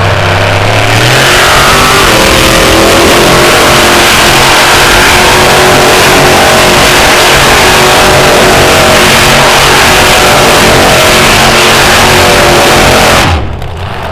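Monster truck engine at full throttle, held at high revs for a long spell as the truck spins donuts, then cut back sharply near the end.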